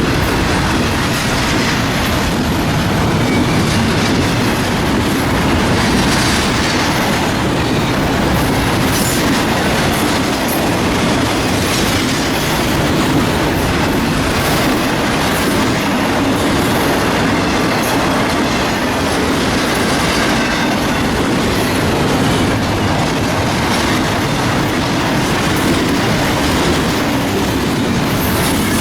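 Freight train cars rolling past, a steady loud rumble of wheels on rail with repeated clicks as the wheels cross rail joints.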